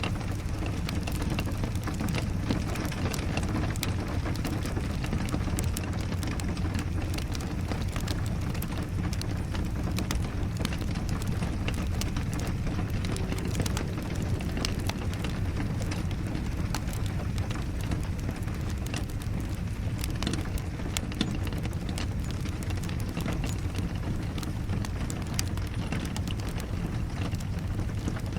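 Wood fire in a fireplace crackling with scattered sharp pops over a steady rush of rain.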